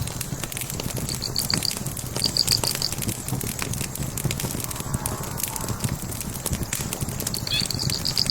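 Burning logs crackling and popping with many small sharp cracks. A high, rapid chirping trill cuts in briefly twice in the first three seconds and again near the end.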